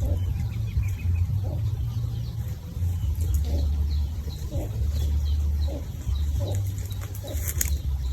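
Chickens clucking in short calls about once a second, with small birds chirping higher up, over a steady low rumble.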